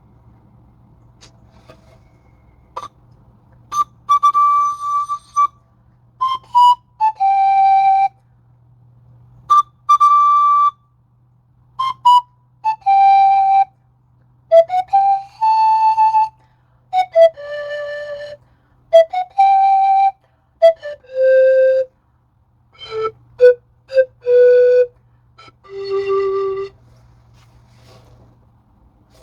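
Pan flute played by a learner: single held notes with short gaps between them, the pitch stepping mostly downward through the passage, with a faint steady low hum underneath.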